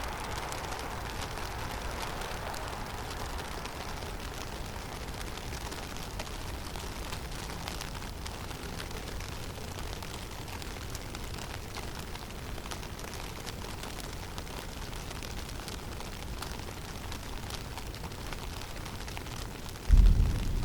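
Steady hiss and low rumble of a snowstorm blowing through a forest, with a mid-pitched rush that dies away over the first few seconds. Near the end a sudden loud, low thump stands out.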